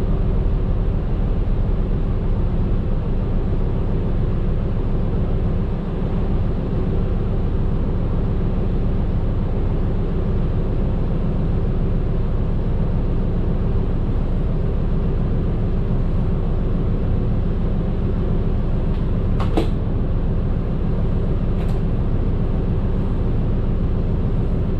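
A medium bus's engine and road noise drone steadily, heard from inside the cabin while driving. Two brief clicks or rattles come near the end.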